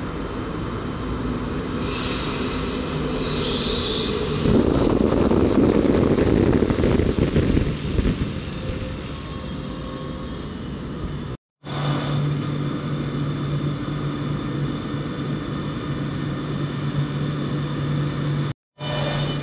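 A train passing through a station: rumbling wheels with a high squeal, loudest about five to eight seconds in. After a brief cut, a steady hum with a low tone.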